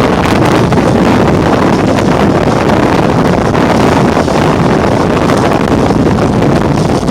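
Loud, steady wind buffeting the microphone over rushing water, aboard a Hobie 16 catamaran sailing fast.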